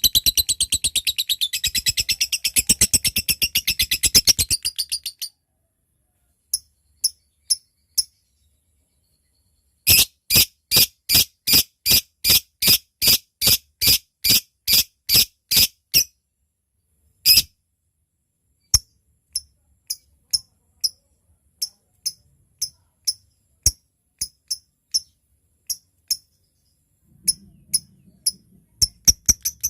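Lovebird calling: a fast, shrill chattering trill (ngekek) stops about five seconds in, then gives way to sharp single chips (ngetik). Midway these chips come in a steady run of about three a second. Near the end the chatter starts again.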